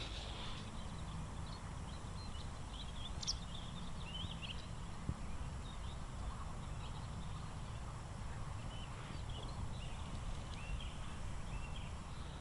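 Scattered short bird chirps over a steady low outdoor rumble.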